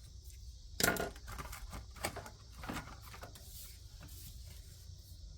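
Cash bills and the savings-challenge papers being handled: rustling with a few sharp taps, the loudest about a second in.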